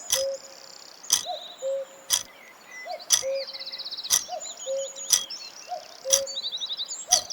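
Birds chirping and trilling, with a sharp tick about once a second, each followed by a short low note, like a quiz countdown timer.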